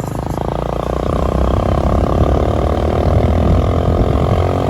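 An engine running steadily and loudly close by, with a fast, even firing pulse.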